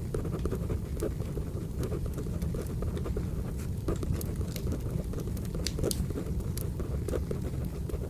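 Wood fire burning, a steady low rumble with frequent irregular crackles and pops.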